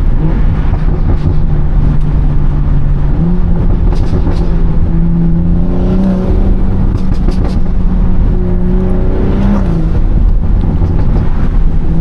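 BMW 340i's turbocharged 3.0-litre inline-six running through a catless downpipe and valvetronic exhaust while driving. The engine note steps up in pitch about three seconds in, climbs a little twice more, and falls back near the end, with a few short crackles around the middle.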